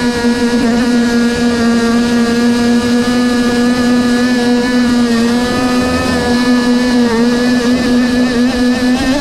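Small nitro glow engine of an RC boat running steadily at high speed, its pitch wavering slightly.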